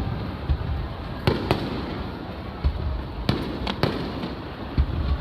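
Aerial firework shells bursting: several sharp bangs, some in quick succession, each with a brief echo, over a continuous low rumble of further bursts.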